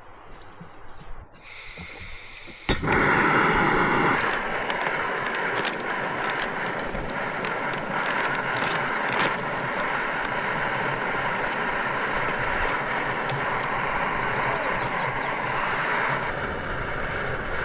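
Fire Maple canister gas stove's burner hissing steadily under a pot of water coming to a rolling boil. The hiss comes on suddenly about three seconds in.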